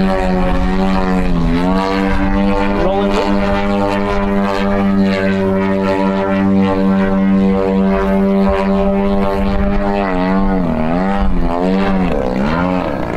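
100cc gasoline engine of a giant-scale aerobatic RC airplane running at a steady pitch, dipping briefly about a second and a half in. Near the end its pitch swings up and down several times as the throttle is worked through a maneuver.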